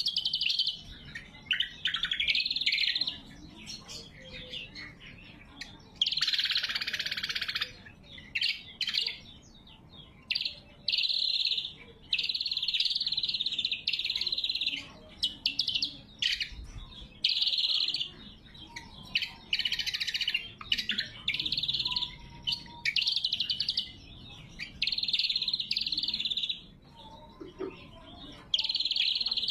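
Cucak kombo singing loud, sharp song phrases, repeated one after another with short pauses between them.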